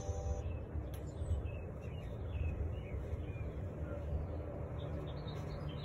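Small birds chirping now and then, short quick calls over a steady low rumble.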